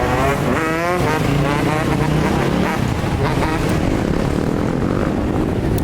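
Dirt bike engines running loudly, their pitch wavering up and down as the throttle is worked.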